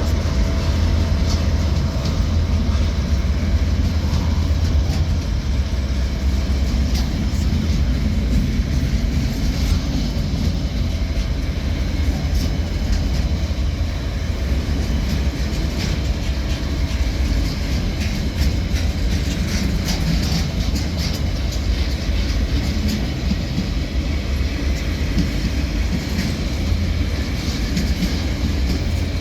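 Two DL-class diesel-electric locomotives hauling a train under power, their engines notching up as it gets going again after a stop at a signal. Steady low engine sound, with the wheels clicking over the rails.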